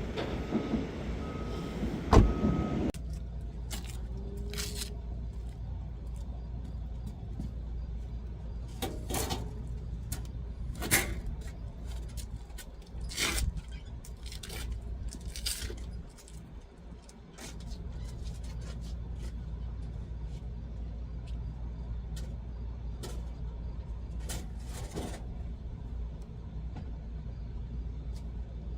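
Scattered metallic clanks and knocks over a steady low hum, with a short row of beeps and a loud bang in the first few seconds.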